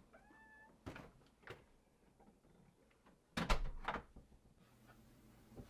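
A door being worked: a short squeak at the start, a couple of sharp clicks, then a louder knock and rattle about three and a half seconds in as it shuts. Faint room tone fills the gaps.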